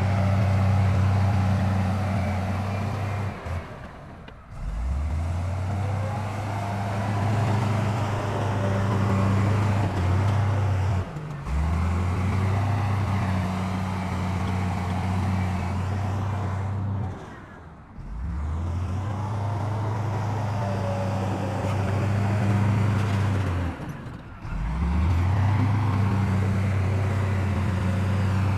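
Heavy diesel earthmoving machinery running with a steady low engine hum. The sound breaks off sharply about every seven seconds and comes back each time with a short rise in pitch.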